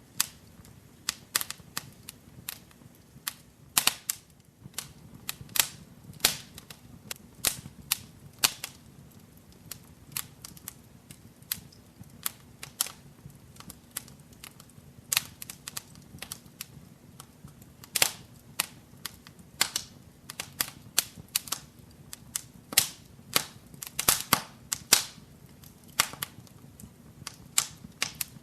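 Wood fire in a fireplace crackling: irregular sharp pops and snaps, sometimes several a second, over a faint low hiss of the flames.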